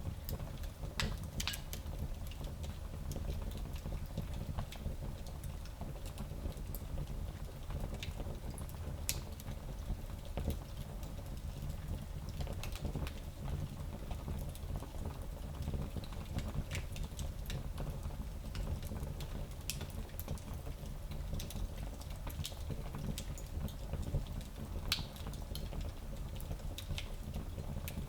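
Small wood fire burning in a fireplace: a steady low rumble of flame with scattered crackles and pops, a few sharper snaps near the end.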